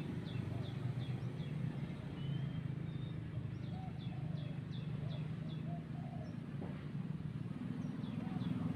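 A bird calling in runs of short, high, falling notes, about three a second, broken by pauses, with a few lower warbled notes between; a steady low hum runs underneath.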